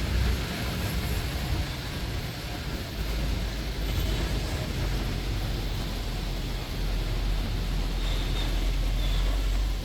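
Steady low rumble of a double-decker bus driving, under an even hiss of rain and wet road noise.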